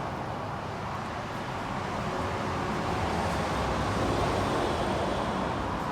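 Steady road traffic noise: an even low rumble and hiss with no distinct events, swelling a little about halfway through.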